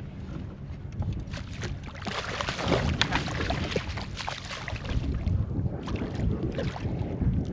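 Water splashing and sloshing against a kayak as a hooked catfish is fought to the side, with wind buffeting the microphone. The splashes come thick and uneven from about a second in.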